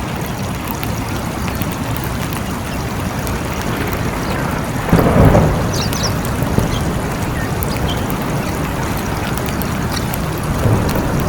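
Steady heavy rain, with a short rumble of thunder about five seconds in.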